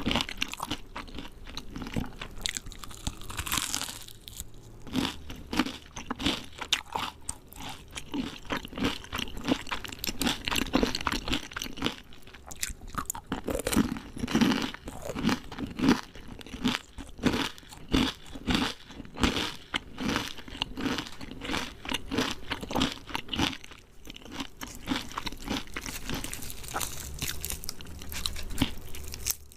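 Close-up eating of crispy fried chicken: the breaded skin crunching under the teeth with steady, rapid chewing.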